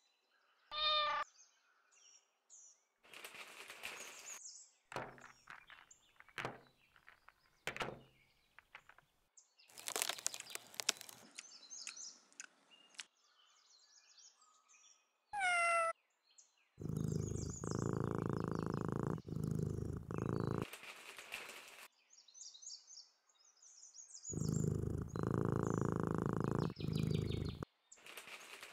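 A cat purring in two long stretches in the second half, each about three to four seconds, with two short meows, one near the start and one about halfway. Birds chirp faintly and soft rustles come between.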